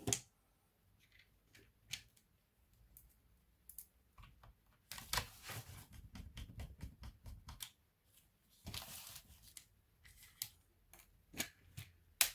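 Hands working on a laptop's parts: scattered sharp plastic clicks, and two longer rustling, scraping stretches about five and nine seconds in.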